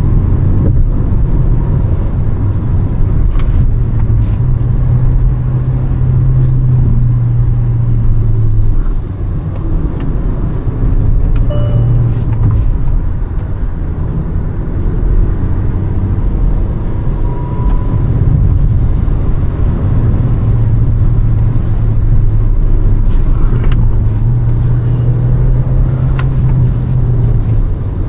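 Hyundai Verna's 1.5-litre turbo petrol four-cylinder engine running under way, its note shifting up and down several times, over steady road and tyre noise, with a few short clicks.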